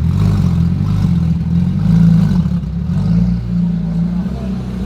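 V12 supercar engine idling, a deep, steady rumble.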